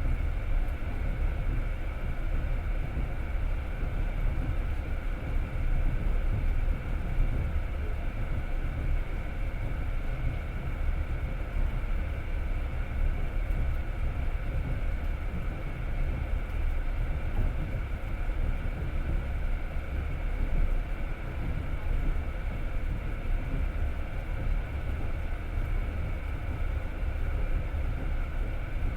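Passenger train running at steady speed, heard from inside the carriage: a continuous deep rumble of wheels on rails with a faint steady hum above it.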